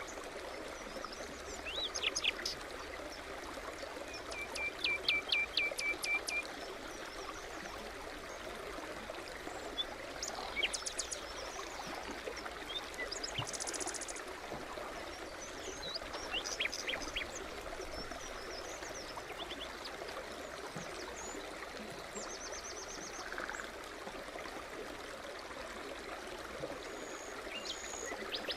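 A small forest brook babbling steadily, with songbirds calling over it. A run of about eight quick repeated notes comes around five seconds in, and short chirps and high trills are scattered through the rest.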